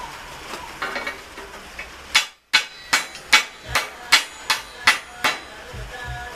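Hammer striking steel: a run of about nine sharp, evenly spaced blows, roughly two and a half a second, each leaving a metallic ring.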